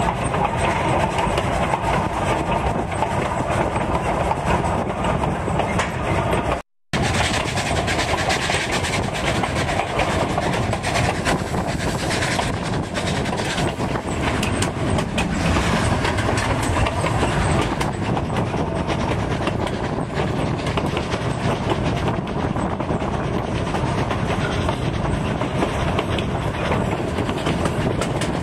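Narrow-gauge train cars rolling along the track, heard from aboard: a steady rumble and rattle of wheels on the rails. The sound cuts out completely for a moment about a quarter of the way through.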